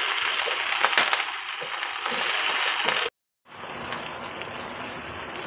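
Shredded cabbage frying in grease in a pot: a steady sizzle with scattered crackles. After a short break about three seconds in, a quieter sizzle as the cooked-down cabbage is stirred with a wooden spoon.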